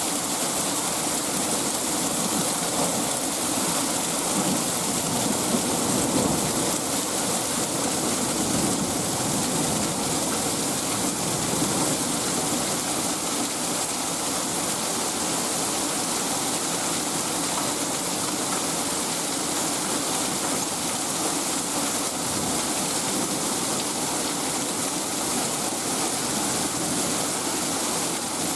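Heavy hailstorm: hail and rain pelting down in a steady, dense hiss.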